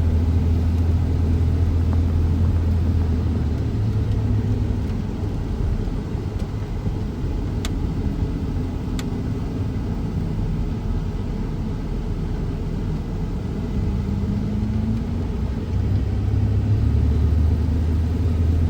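Car driving, heard from inside the cabin: a steady low road and engine rumble that eases off through the middle and builds again near the end. Two faint clicks come in the middle.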